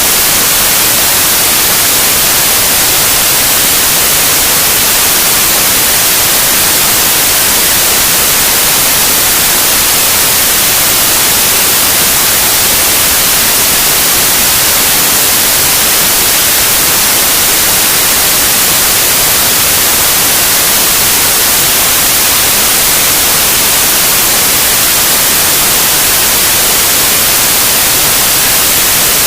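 Loud, steady white noise: an even hiss, brightest in the highs, with no change or break.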